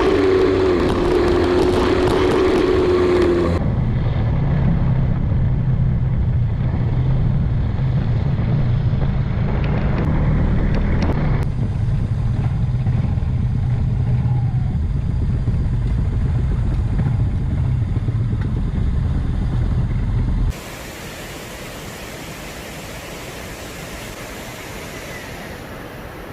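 Small underbone motorcycle riding along, its engine running under a steady low rumble of wind and road noise. The sound jumps abruptly a couple of times. About twenty seconds in it gives way suddenly to a quieter, even rushing hiss.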